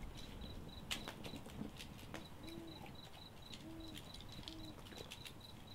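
Two soft low hoots of a bird, one about two and a half seconds in and one about three and a half seconds in, each rising and falling in pitch. A faint, fast, high-pitched pulsing runs underneath.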